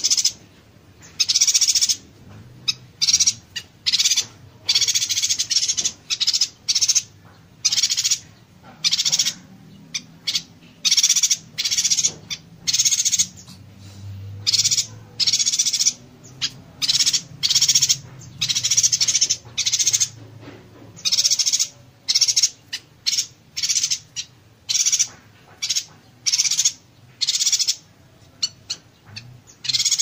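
Yuhina giving its 'konslet' (short-circuit) call: dense, buzzy, crackling chatter in rapid bursts. Each burst lasts under a second, and they follow one another with only short gaps.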